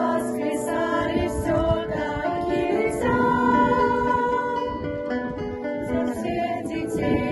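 A vocal ensemble singing in chorus with instrumental accompaniment, the voices holding long notes.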